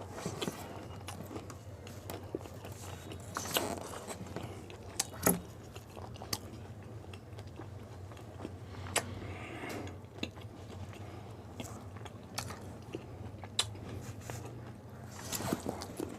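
A person biting into and chewing pani puri, the crisp fried shells crunching in scattered bites, the loudest crunch about five seconds in. A steady low hum runs underneath.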